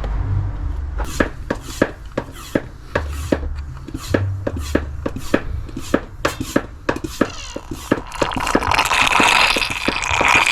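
Hand-operated Pela oil extractor pump being worked to suck the remaining oil out of the oil filter housing: a run of quick clicking strokes, about three a second, then a steady hiss for the last couple of seconds.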